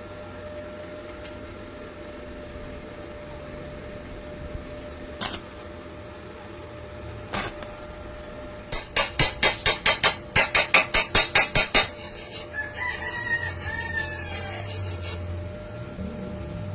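A quick, even run of about a dozen sharp strokes, about four a second, followed by a rooster crowing.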